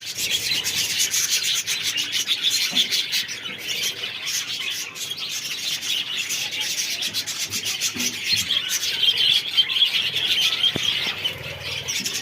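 Many budgerigars in a breeding colony chattering and chirping at once, a dense, continuous twittering with many short clicks.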